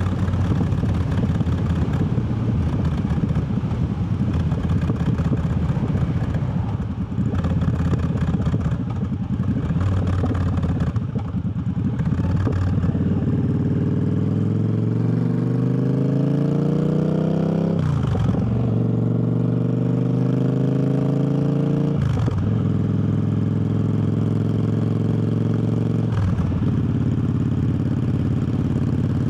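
Triumph Bobber's 1200 cc parallel-twin engine on the move: a low rumble at first, then the motorcycle accelerating with the engine note climbing. It shifts up with sharp drops in pitch about three times, then holds a steadier note.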